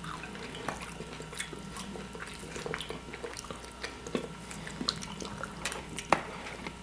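Scattered small wet clicks and crackles of buttered shrimp being peeled and eaten by hand, with some chewing and sucking.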